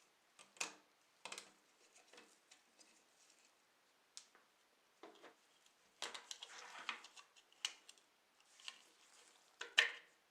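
Scattered light clicks and taps of small hard parts and tools being handled, with a longer scrape about six seconds in and a sharper click near the end.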